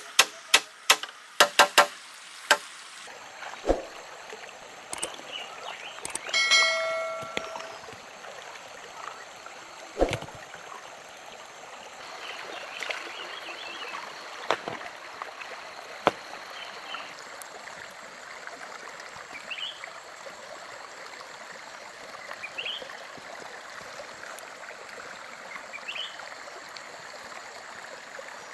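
A rapid run of sharp tool strikes on wood, about three a second, stopping after two or three seconds. Then a steady stream runs, with a brief ringing tone, a few single knocks and three short rising chirps.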